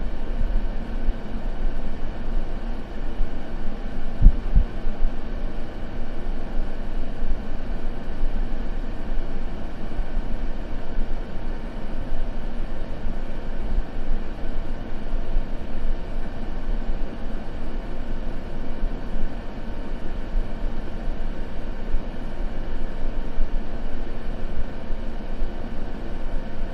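Steady white noise weighted toward low pitches, with a single low thud about four seconds in.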